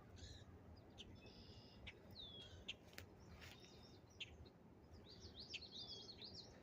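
Faint small-bird chirps and calls, with a falling whistled note a little after two seconds in and a quick run of high chirps near the end. A few soft clicks are scattered through.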